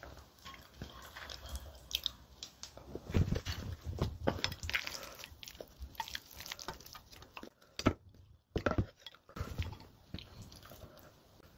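Close-miked chewing and wet mouth smacks of someone eating spicy mixed noodles, in irregular short clicks, with a moment of near silence a little after halfway.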